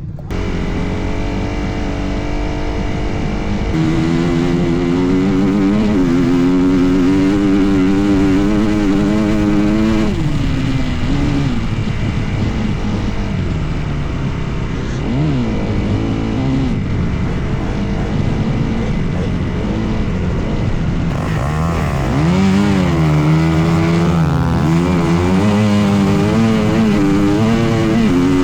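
Dirt bike engine running and revving on sand dunes, its pitch rising and falling repeatedly with the throttle. The sound changes abruptly about four seconds in and again near 22 seconds.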